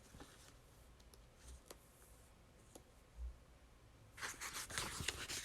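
Near silence: room tone with a few faint clicks, then a soft rustling near the end.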